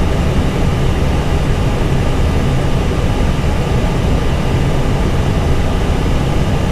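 Steady airflow and engine rumble inside an Airbus A320 cockpit on approach descent, heaviest in the low end, with a faint steady whine above it.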